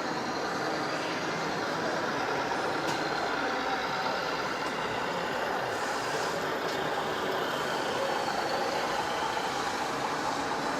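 Radio-controlled scale model trucks running, a steady truck-like engine drone.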